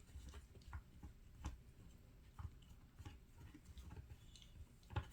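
Faint, irregular clicks and crunches of a Swiss mountain dog puppy gnawing on a hoof chew.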